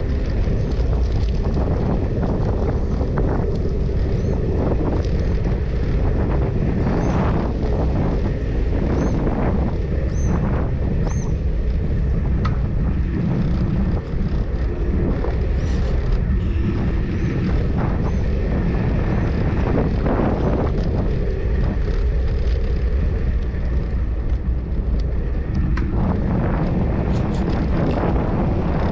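Steady wind rumble on the microphone of a camera riding along on a bicycle, with scattered short clicks and a few faint high chirps.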